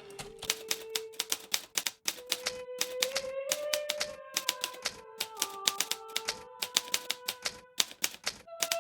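Hermes Baby portable typewriter being typed on: keys striking in quick, irregular runs of several clicks a second, with a brief pause about two seconds in. Soft sustained music tones that change pitch now and then lie underneath.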